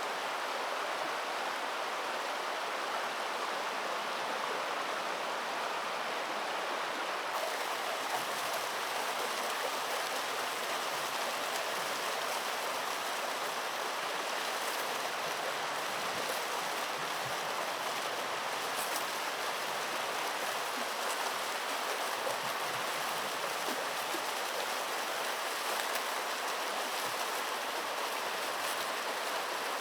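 Steady rush of flowing stream water, even and unbroken, with the hiss growing a little brighter about seven seconds in.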